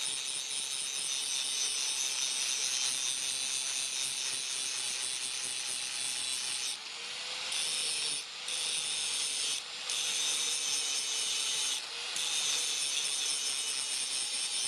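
A power grinder grinding spring steel in a steady, high rasp, lifted off the work for a moment four times.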